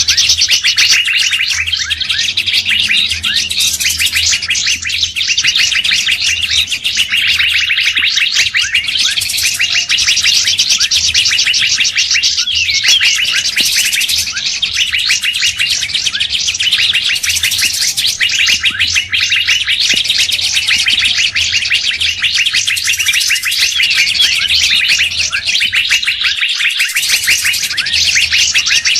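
A dense, continuous chorus of songbirds chirping rapidly and without pause, from a bird-lure call recording used to attract wild birds.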